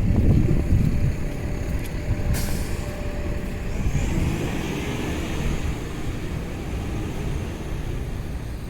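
Street traffic with a heavy vehicle such as a truck or bus running past, and a sharp hiss about two seconds in, like an air brake release.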